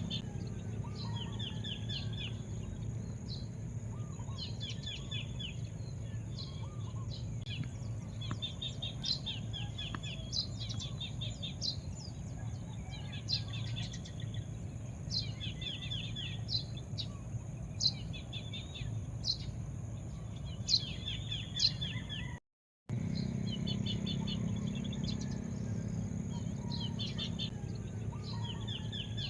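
Small birds chirping over and over in short quick trills, over a steady high-pitched insect-like whine and a low background rumble. The sound cuts out completely for a moment about 22 seconds in.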